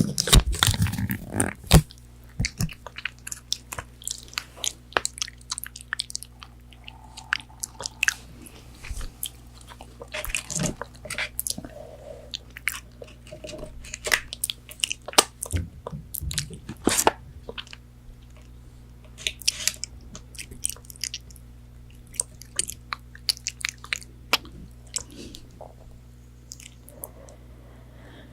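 Close-miked eating of fried chicken nuggets: crispy breading crunching and crackling through repeated bites and chewing, densest at the start, over a faint steady hum.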